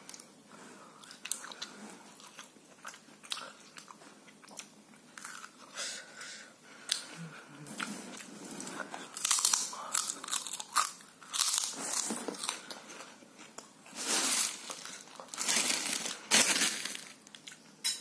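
A person biting and chewing crunchy food close to the microphone: a run of wet, crackling crunches, loudest and densest in the second half.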